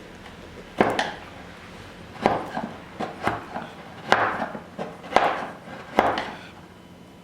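A chisel being driven into wood to clear the waste from a lap joint, with about half a dozen sharp knocks at uneven intervals. Some knocks trail off in a short scraping of wood chips.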